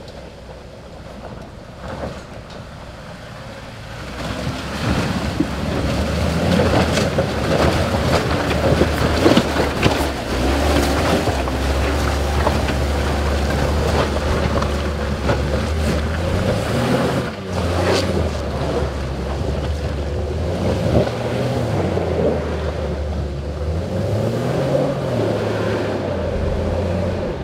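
JK Jeep Wrangler engine working hard up a steep, rutted mud hill. It grows loud about four seconds in, and its revs rise and fall in the second half.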